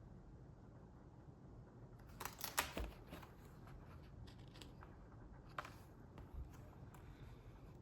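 Faint paper rustling and handling of a book's pages, a short cluster about two to three seconds in and a few single light clicks after, over a low room hiss.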